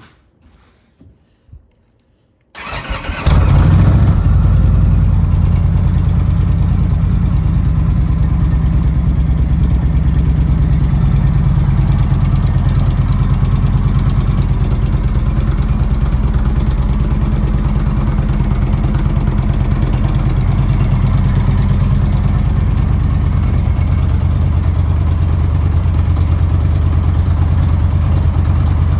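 2018 Indian Springfield's Thunder Stroke 111 V-twin engine started about two and a half seconds in, a brief crank catching at once, then idling steadily. A few faint clicks come before the start.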